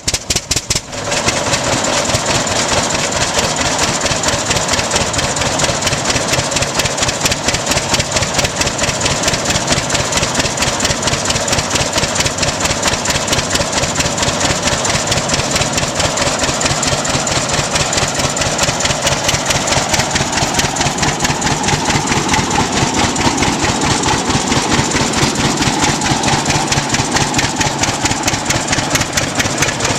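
1928 Rumely OilPull Model X tractor's kerosene-burning two-cylinder engine catching after a few separate firing strokes, then settling about a second in into a steady, fast, even beat of exhaust pulses at idle.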